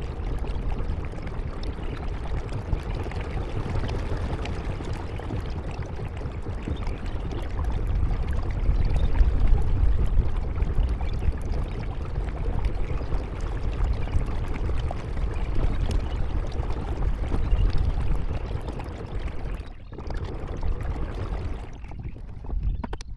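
Steady rushing and splashing of water around a paddled kayak, with a deep rumble underneath; it drops away briefly near the end.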